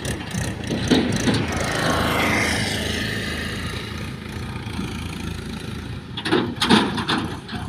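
Heavy diesel engine running, its pitch rising and then easing back down about two to four seconds in, with a cluster of knocks and clatter near the end.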